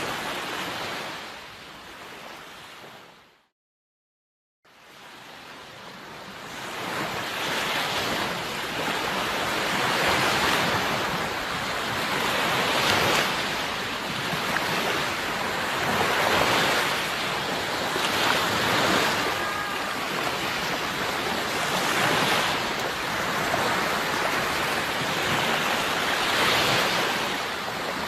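Sea waves washing in, swelling and ebbing every few seconds. About three seconds in, the sound fades out to a second of complete silence, then fades back in.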